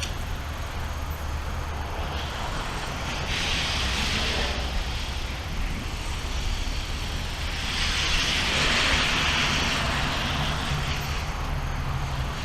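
Heavy rain falling in a thunderstorm, a steady hiss that swells louder twice, briefly about three seconds in and again for about two seconds around the eight-second mark, over a low steady rumble.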